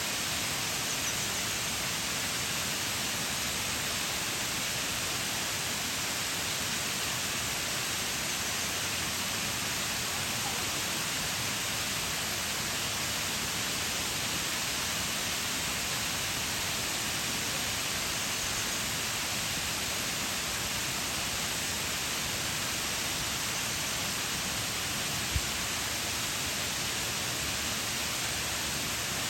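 Waterfall, a steady even rush of falling water with no change over the whole stretch. A single brief low thump about 25 seconds in.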